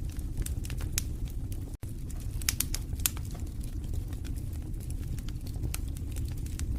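Wood fire crackling in a fireplace: irregular sharp pops and snaps over a steady low rumble of burning logs, with an instant's gap about two seconds in.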